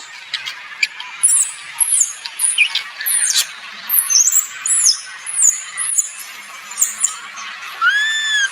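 Shrill animal chirps, short and sweeping downward in pitch, repeated about twice a second over a faint hiss, with one short squeal that rises and falls just before the end.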